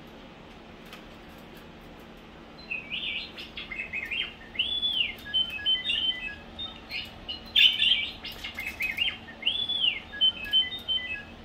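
R2-D2 toaster playing R2-D2-style electronic beeps and whistles while the toast cooks, starting a couple of seconds in, the same sequence of rising-and-falling whistles and quick beep runs repeating about every five seconds over a faint steady hum.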